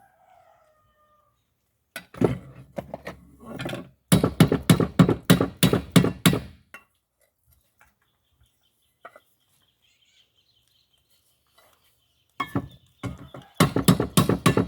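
Metal pot being knocked on repeatedly in quick runs of sharp metallic taps, as when a handle is hammered or riveted on. The taps come in two bursts, one around the middle and one near the end, with a quiet stretch between.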